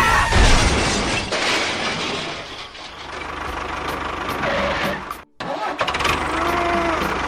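A small engine or motor running, with a sudden break of about a quarter second, about five seconds in, before it carries on.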